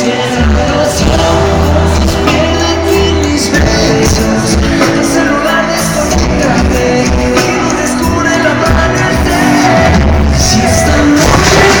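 Live pop concert: loud amplified band music with sung vocals over a heavy bass line.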